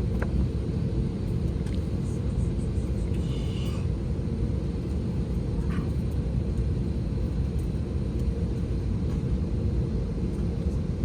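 Steady low rumble inside an Airbus A321neo cabin: the air-conditioning and ventilation noise of the airliner waiting on the ground before departure.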